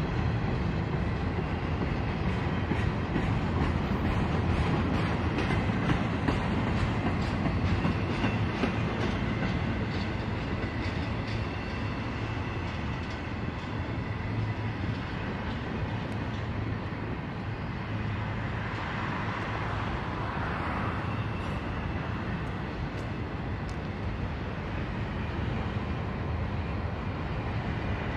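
Freight train cars rolling past: a steady rumble of steel wheels on rail, with rhythmic clicking as the wheels cross rail joints, a little louder in the first third.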